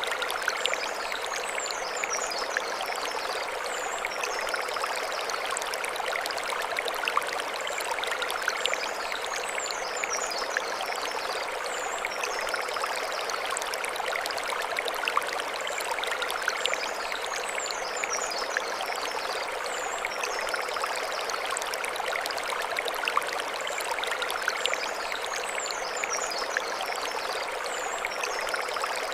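Mountain stream flowing over stones: a steady rush of water. Short high chirping calls recur every few seconds above it.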